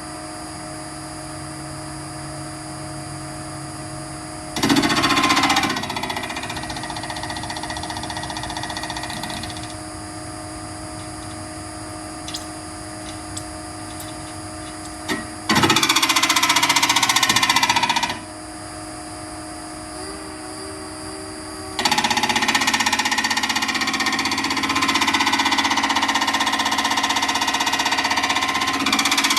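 Nova Viking drill press running steadily, with a twist bit cutting into steel in loud stretches: briefly about five seconds in, for a couple of seconds around the middle, and continuously over the last several seconds.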